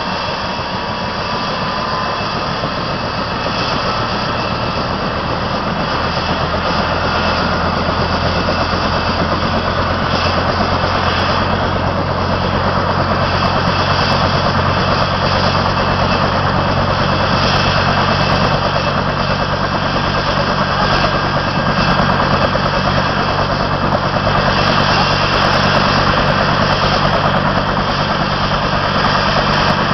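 Helicopter running steadily: an even, loud drone of turbine and rotor with a steady low hum underneath, getting slightly louder over the first several seconds.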